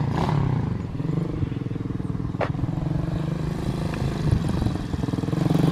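An engine idling steadily with a fast, even firing pulse. A short falling chirp cuts in about halfway through.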